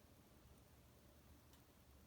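Near silence from a wood fire in a fireplace, with one faint crackle about one and a half seconds in.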